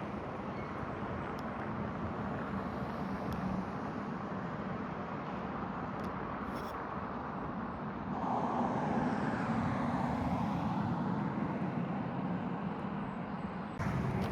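Steady highway traffic noise, with one vehicle passing close and louder about halfway through, then fading. A sudden rise in noise comes near the end.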